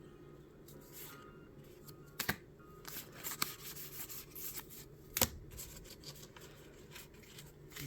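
Trading cards and their packaging handled: faint rustling and shuffling with scattered light clicks, two sharper ones about two and five seconds in.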